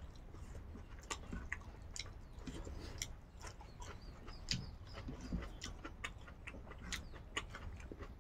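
Quiet close-up eating sounds: soft chewing and lip smacks, heard as irregular small clicks a few times a second.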